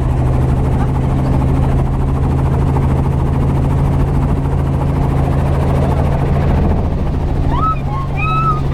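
Helicopter in flight: a steady, loud drone of engine and rotor.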